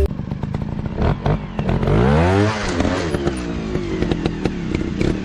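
Dirt bike engine revving: its pitch rises for about a second, starting a little over a second in, then falls back, with rapid clattering pops running underneath.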